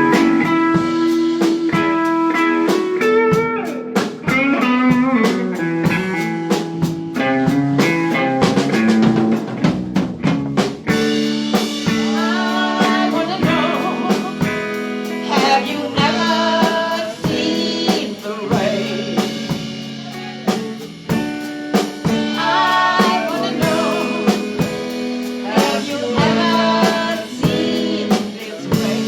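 Live rock band playing, with electric guitar and drum kit. A guitar melody leads for the first ten seconds or so, then a wavering sung or bent-note melody takes over while the drums keep time.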